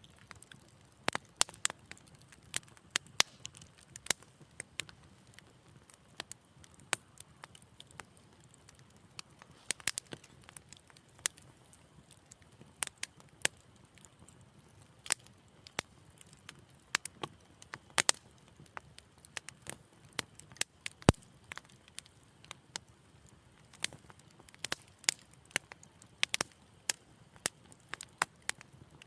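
Wood fire in a fireplace crackling, with irregular sharp pops and snaps several times a second over a faint low rumble, and one louder pop about two-thirds of the way through.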